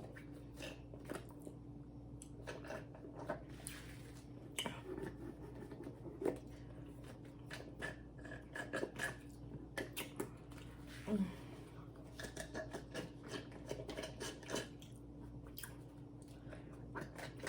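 A person chewing and biting Taco Bell food up close: scattered soft crunches and clicks, irregular, over a faint steady hum.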